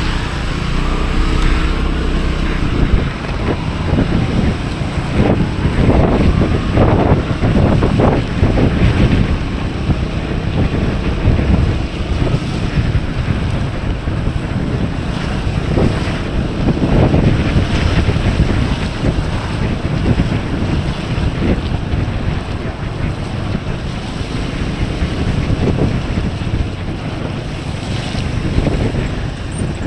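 Wind buffeting the microphone of a Piaggio MP3 300 scooter rider at speed, a loud gusting rush that rises and falls, with the scooter's engine hum faintly beneath it in the first few seconds.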